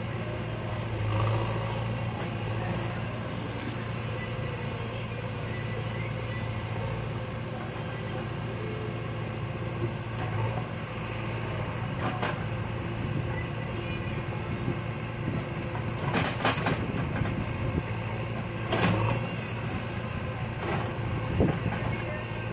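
Backhoe loader's diesel engine running steadily under work, with a few short metallic clanks and knocks, most of them in the second half.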